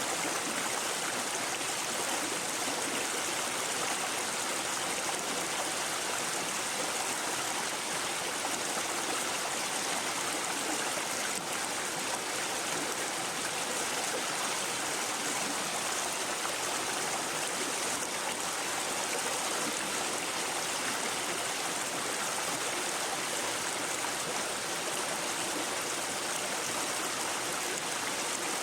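Shallow brook babbling and trickling over stones, a steady, even water sound without breaks.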